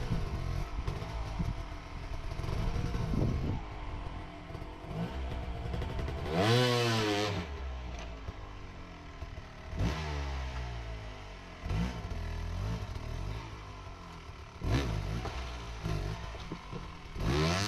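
Off-road dirt bike engine working through a rocky trail section: it runs at low revs between short blips of the throttle and is revved up sharply four times, loudest about six seconds in.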